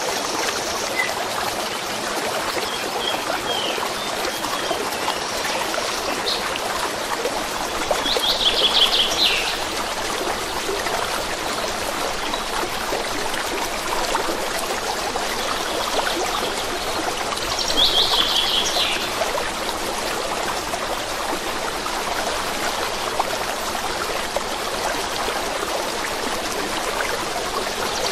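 A stream babbling and trickling steadily, with a small bird singing a short phrase of rapid high notes twice, about eight seconds in and again near eighteen seconds, and a few faint chirps between.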